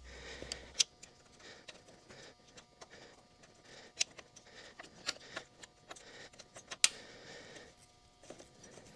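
A handful of sharp, light metallic clicks and clinks, spaced a second or more apart, the loudest near the end, from steel parts of a car's front suspension being handled: the shock absorber, its mounting plate and bolts against the lower wishbone.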